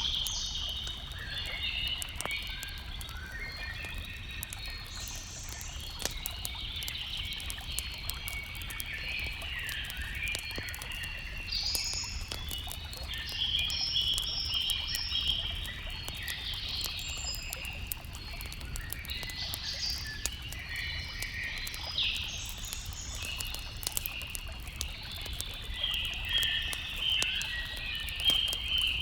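Several birds singing together: a dense, unbroken run of short overlapping chirps and phrases, over a steady low rumble.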